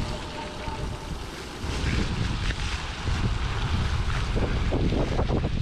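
Wind buffeting the microphone on a moving electric bike, a low rush that grows louder about a second and a half in.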